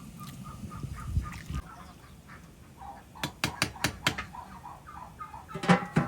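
Domestic fowl calling in a quick run of short, repeated calls, with several sharp knocks in the middle and a louder clatter near the end.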